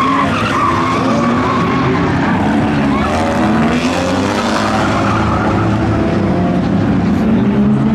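Several race car engines running at once in a field of figure-8 racing cars, their pitches rising and falling as the cars accelerate, lift and pass.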